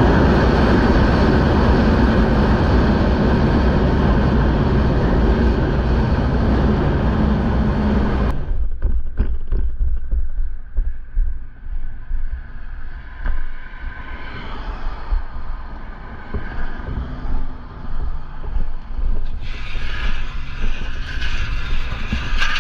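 Motorcycle riding noise: heavy wind rush over the helmet-camera microphone, cutting off abruptly about eight seconds in to a quieter, gusty mix of wind and a running engine.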